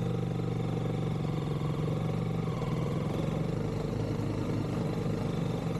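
Honda CRF300L's single-cylinder four-stroke engine running steadily as the dirt bike is ridden through muddy ruts.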